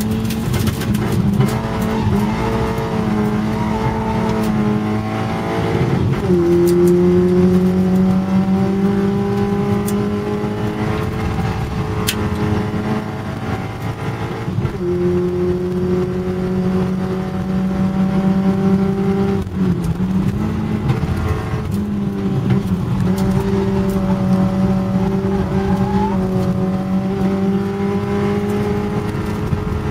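Competition car's engine heard from inside the cabin, running hard under acceleration: its note climbs slowly and falls sharply a few times as the driver changes gear or comes off the throttle.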